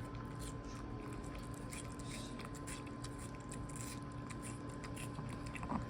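A Pomeranian chewing watermelon, heard as a steady scatter of small clicks.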